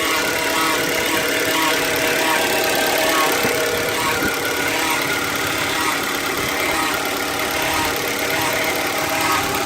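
2015 Hyundai Elantra engine running steadily with a steady whining note over it: an extraneous noise that the owner cannot place and wonders may come from the gearbox.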